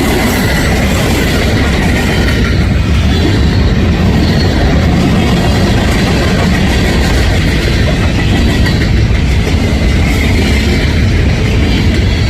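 Freight cars of a Union Pacific manifest train rolling past at track side: a loud, steady rumble of steel wheels on rail with clickety-clack from the rail joints.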